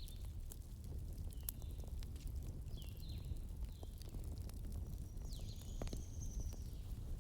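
Wood fire burning in a fireplace: a low steady rumble of flames with irregular sharp crackles and pops from the logs. Several short high squeaks and a longer high whistle about five seconds in sound over it.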